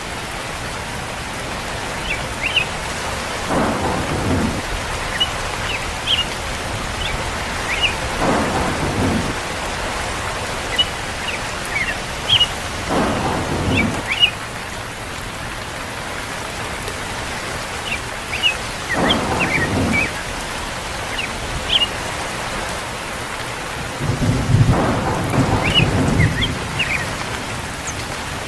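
Steady rain with rolls of thunder, five in all, coming about every five seconds; the longest and loudest comes near the end.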